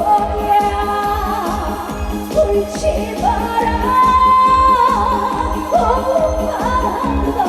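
Female trot singer singing live with band accompaniment over a steady beat, holding one long note from about three seconds in.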